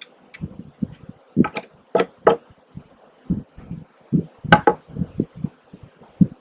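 Irregular wooden knocks and clacks of beehive parts being handled: frames and boxes bumping and set down, a dozen or so separate hits, the sharpest a little over four seconds in.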